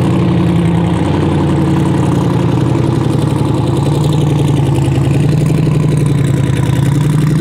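Twin-turbo LS V8 street truck engine running loud and steady at idle.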